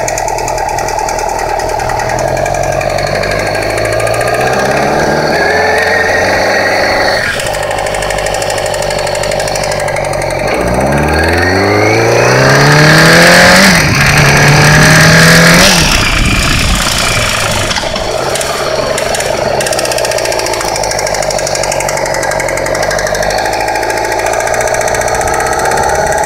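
2008 Yamaha YZF-R6's inline-four engine running as the bike is ridden, its pitch rising a little about four seconds in, then climbing hard from about ten seconds in, holding briefly and dropping off about sixteen seconds in. Through it runs a ticking noise that stays with the revs, which the owner's tags put down to the timing chain or cam.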